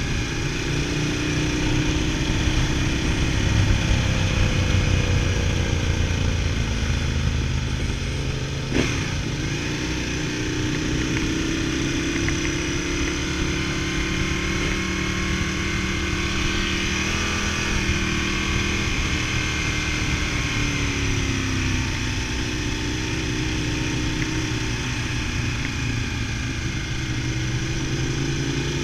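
V-twin motorcycle engine under way, its pitch rising and falling repeatedly as the throttle opens and closes through the gears, with one brief knock about nine seconds in.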